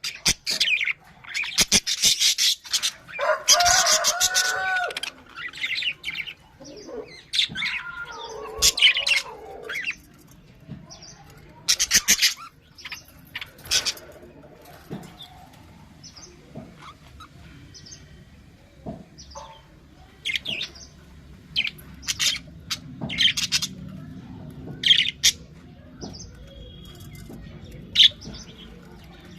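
A colony of budgerigars chirping and chattering in short, high calls, with louder warbling squawks a few seconds in and again near the ninth second.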